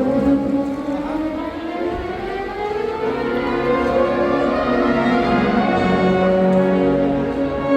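Sierra Mixe filarmónica wind band playing: several pitches slide upward together for about three seconds, then settle into held chords.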